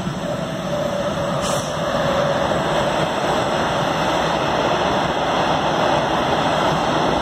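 Metronom regional train, an electric locomotive with double-deck coaches, passing: a steady rush of wheel and rail noise that grows louder over the first two seconds, with a faint tone near the start.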